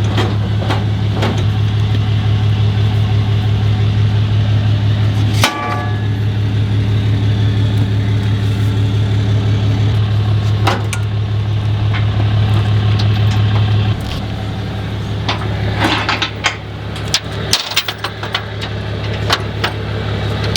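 Pickup truck engine idling steadily, its hum dropping in level about two-thirds of the way through. Near the end comes a run of sharp knocks and clicks while the gooseneck trailer is being coupled to the hitch.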